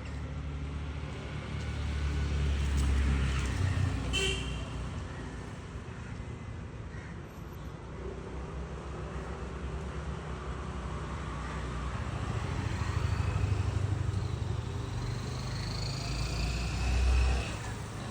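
Road vehicles passing by, a low engine rumble that swells and fades several times, with a brief high-pitched toot or call about four seconds in.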